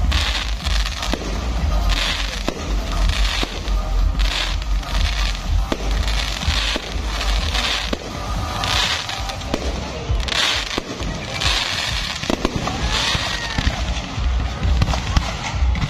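Fireworks display: aerial shells bursting one after another with sharp bangs and crackling sparkle showers every second or two, over a continuous low rumble.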